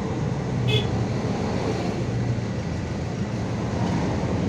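MAZ 216 city bus heard from inside while riding: steady engine drone and road rumble, with a brief high chirp about a second in.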